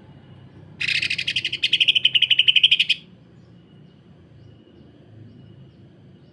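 Cucak ijo (green leafbird) giving one harsh, very rapid rattling burst of notes, the fast "sewing machine" call, starting about a second in and lasting about two seconds.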